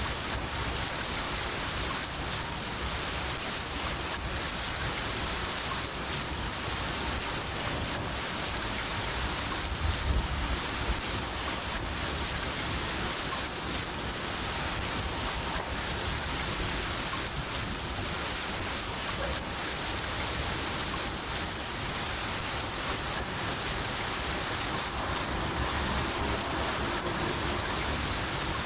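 Crickets chirping in a steady rhythm of about three chirps a second, with a short break a few seconds in, over the even hiss of steady rain. A low rumble of thunder about ten seconds in.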